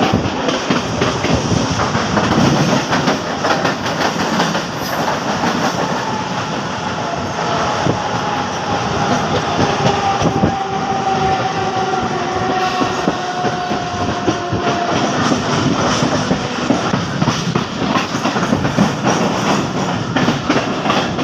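Train running along the track, its wheels clattering steadily over the rails. In the middle, a single tone slides slowly lower for several seconds.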